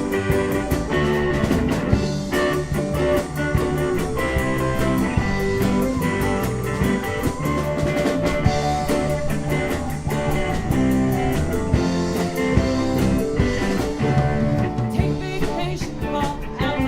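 Live rock band playing a full-band passage: electric guitar over bass, keyboards, mandolin and a steadily beating drum kit.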